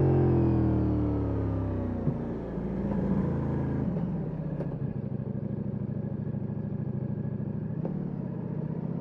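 Ducati Multistrada V4S's V4 engine with an Akrapovic exhaust, its revs falling steadily as the bike slows over the first couple of seconds. It then settles into a low, steady rumble at low revs.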